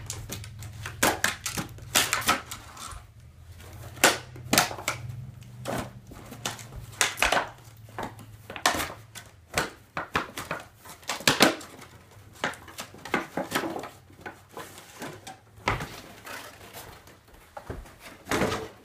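Cardboard and plastic toy packaging being handled and pulled apart: irregular crackling, rustling and sharp clicks.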